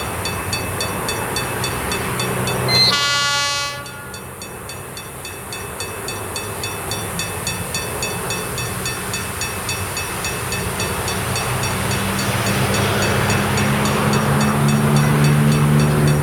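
ALCO RSD-16 diesel locomotive sounds one horn blast of about a second, roughly three seconds in. Its engine rumble then grows steadily louder as it approaches, hauling loaded mineral hopper cars.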